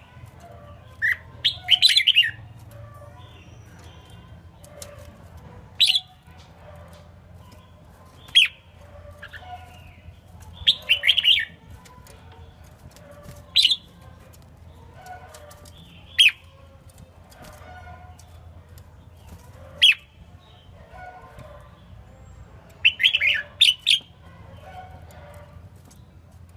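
Red-whiskered bulbul singing: short, loud, bright phrases every few seconds, some single sharp notes and some quick runs of several notes, over fainter background chirping and a low hum.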